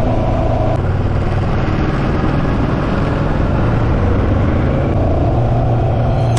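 Kawasaki Versys 650 parallel-twin engine running at a steady cruising speed, with wind rushing over the microphone.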